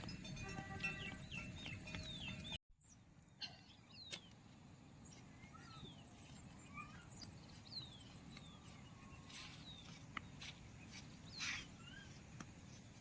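Faint birds calling outdoors: scattered short chirps, many sliding down in pitch, over a low steady background. A louder stretch with ringing tones cuts off abruptly about two and a half seconds in.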